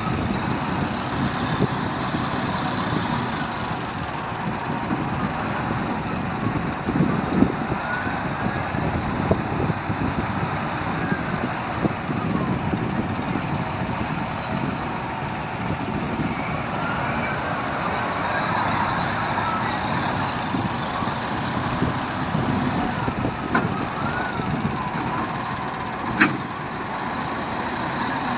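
Heavy diesel truck engine running steadily, with a few knocks and one sharp crack near the end, typical of logs being unloaded.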